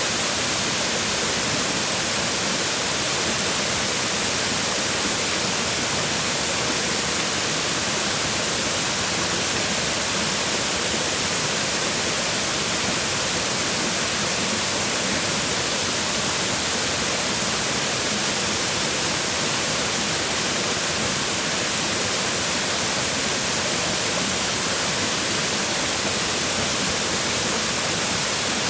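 Waterfall: water falling and splashing on rocks in a steady, unchanging rush with the most energy in the higher hiss.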